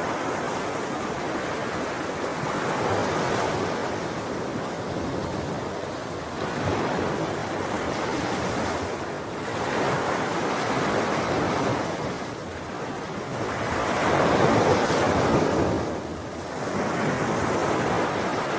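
Sea waves breaking and washing on a shore: a continuous surf that swells and recedes every few seconds, with the biggest surge about three-quarters of the way through.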